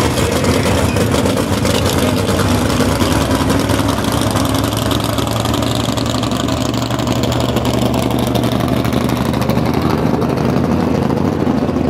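Engine of a pulling truck running loud and steady with a fast, even exhaust rasp, a little duller in the treble near the end.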